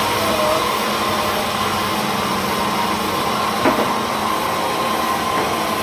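Sawmill machinery running steadily, a continuous motor-driven hum and rush of noise, with one sharp knock a little past halfway.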